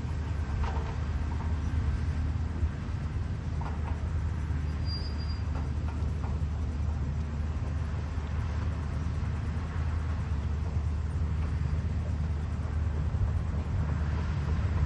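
CAT 320D hydraulic excavator's diesel engine running with a steady low drone, with a few faint knocks over it.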